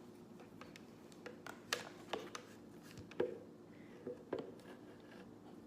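A series of light, irregular clicks and taps, about eight of them, the loudest a little over three seconds in, over a faint steady hum.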